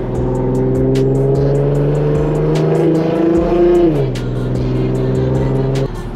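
Infiniti Q50's V6 with an aftermarket Ark exhaust and resonated test pipes, pulling with its pitch slowly climbing, dropping about four seconds in as if on a gearshift, then cutting off sharply near the end. A music beat with regular ticks plays over it.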